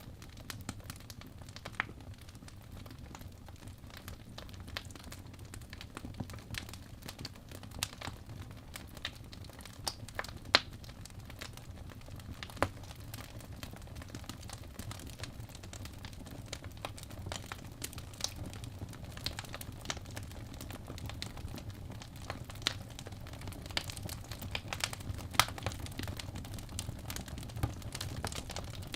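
Crackling fireplace: irregular sharp pops and snaps over a steady low rumble.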